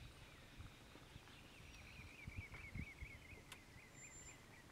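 Near-silent bush ambience with a small bird giving a fast run of repeated chirps from about two seconds in until near the end.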